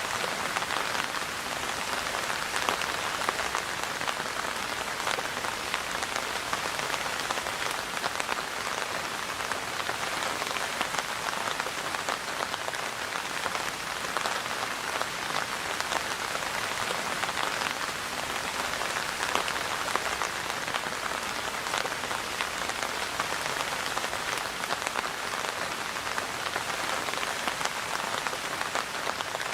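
Steady rain falling, a dense patter of countless drops hitting a surface, with no let-up or change in strength.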